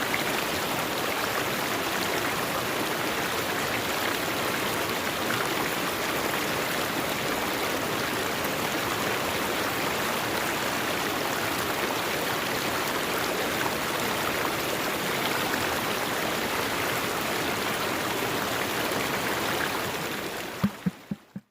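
Steady rush of flowing river water. Near the end it fades out, with a few short knocks as it dies away.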